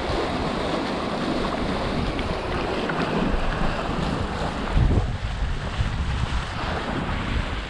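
Wind buffeting the microphone over water rushing and splashing along a Hobie 16 catamaran's hulls under sail, with a heavier buffet of wind about five seconds in.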